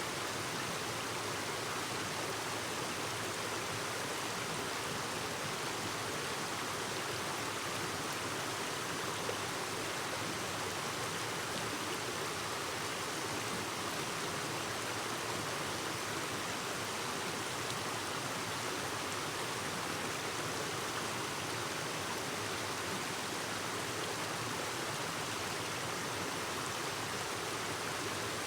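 Clear stream babbling over rocks, a steady, even rush of water.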